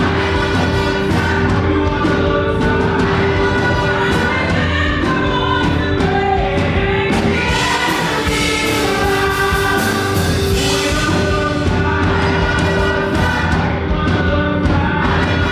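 Live up-tempo gospel praise music: a choir of voices singing over a driving band with steady drums.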